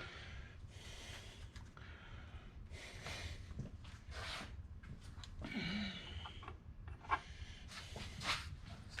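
A person's breathing: several short, noisy exhalations a second or two apart.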